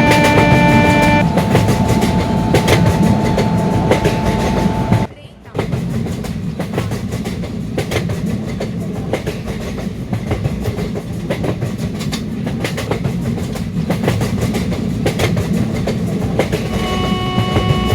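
Express train passing at high speed: a steady rumble with rapid clickety-clack of the wheels over rail joints. The train horn sounds at the start, its chord breaking off about a second in, and sounds again near the end, with a brief drop-out in the sound about five seconds in.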